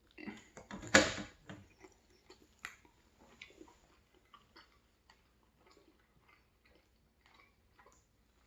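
Close-miked chewing: soft wet mouth clicks and smacks, with a louder burst of noise about a second in.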